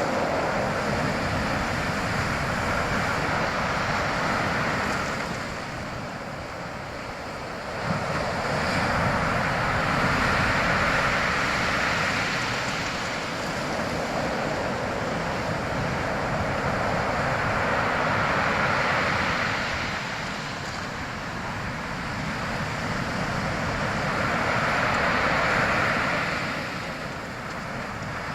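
Sea waves breaking and washing in, the surf swelling and ebbing in long surges about every seven seconds.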